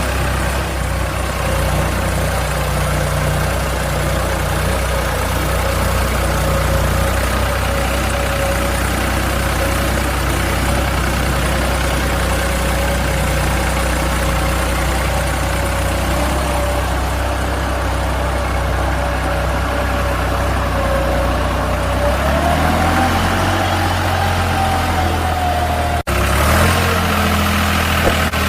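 Truck engine idling steadily, a low hum with a thin whine that rises in pitch a little after twenty seconds. The sound drops out for an instant a couple of seconds before the end, then carries on.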